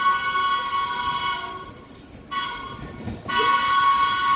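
Subway train horn sounding three blasts: a long one, a short one about two seconds in, then another long one held through the end.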